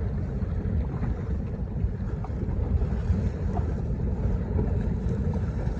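Steady wind rumble on the microphone out on the water, with water washing against a boat.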